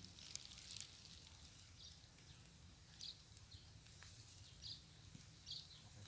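Faint outdoor ambience: a handful of short, high bird chirps a second or two apart, over a low steady background rumble.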